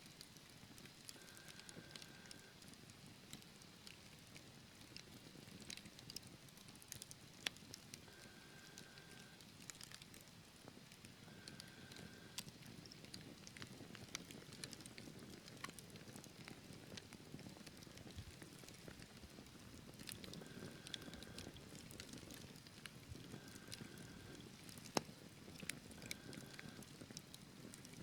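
Wood fire crackling in a fireplace: sharp, irregular pops and snaps over a low, soft hiss. A faint short high whistle comes and goes about half a dozen times.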